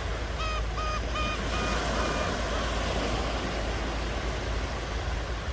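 Ocean surf washing steadily on the shore. A bird calls five times in quick succession in the first two seconds.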